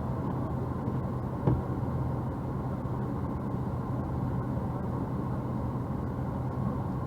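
A car's engine running steadily, a low even hum, with one brief faint sound about a second and a half in.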